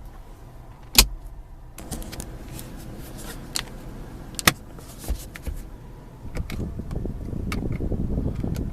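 Sharp clicks and knocks of car interior trim being handled, over a steady low hum inside the cabin. Over the last couple of seconds a small electric motor whirs, of the power-window kind.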